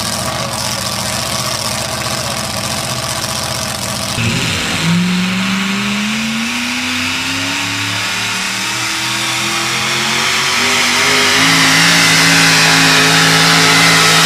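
Modified four-wheel-drive pulling truck's engine running under load. About four seconds in, it changes sharply and the revs climb steadily for several seconds, stepping up again and growing louder near the end as the truck pulls the sled.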